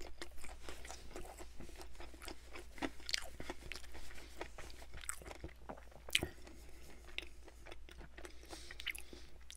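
A person chewing a mouthful of fried food close to the microphone: a steady run of small, crisp crunches, with one sharper crunch about six seconds in.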